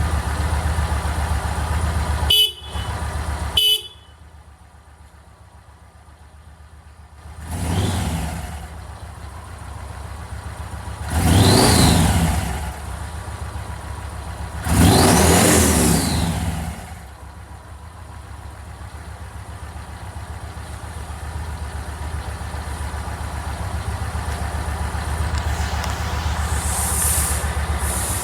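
Yamaha MT-01's 1670 cc air-cooled V-twin running with a low, even beat. Two short sharp beeps come a few seconds in, then the engine goes much quieter for a few seconds. It picks up again and is revved up and down three times before settling back into a steady idle that slowly grows louder.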